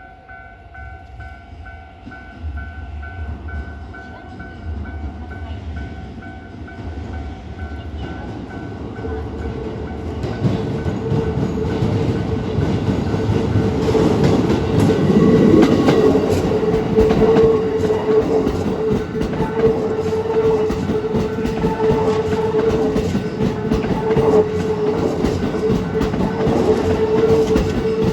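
Level crossing warning bell ringing while a Keikyu New 1000 series electric train approaches, growing steadily louder. From about ten seconds in the train passes over the crossing, its wheels clattering rapidly over the rail joints, with a steady tone running under the clatter.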